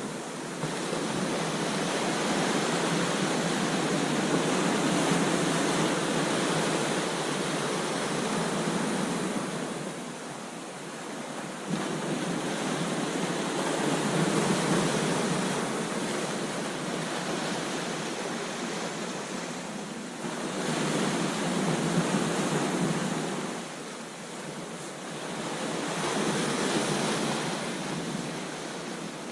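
Ocean surf breaking on a beach: a steady rush of water that swells and eases as four waves come in, the loudest around fourteen and twenty-two seconds in.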